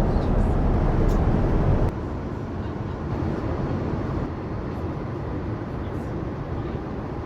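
Steady rushing cabin noise inside a Boeing 787-9 airliner, heaviest in the low end. It drops noticeably in level about two seconds in, then holds steady.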